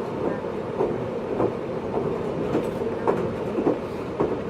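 JR East 583 series sleeper EMU running at speed, heard inside the motor car MoHaNe 582-106. A steady rumble of wheels and running gear, with irregular clicks as the wheels cross rail joints.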